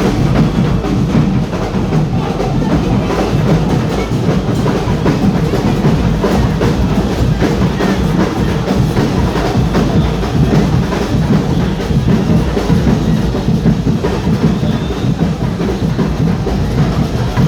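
Carnival percussion band playing: dense, steady drumming with a bass drum and sharp wood-block-like clicks.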